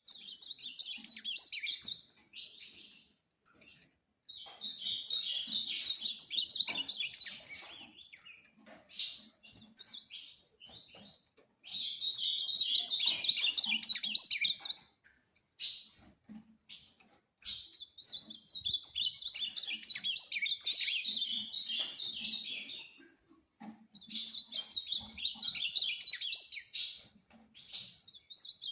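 Ultramarine grosbeak (azulão) singing its rapid, warbled song in repeated phrases of a few seconds each, separated by short pauses.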